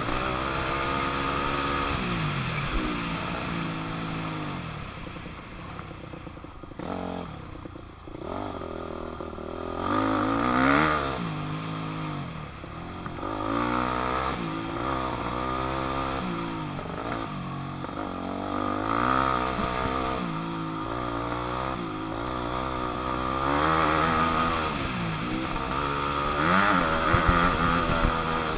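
2006 Yamaha YZ250F four-stroke single-cylinder dirt bike engine being ridden hard, its pitch rising and falling over and over as the throttle is opened and closed through gear changes, with a quieter spell about a third of the way in.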